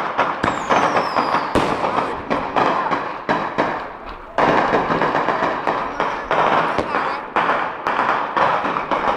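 Fireworks going off in a dense, rapid crackle of many small bangs, with a high whistle falling in pitch about half a second in. The crackling eases briefly just past four seconds, then bursts back in abruptly.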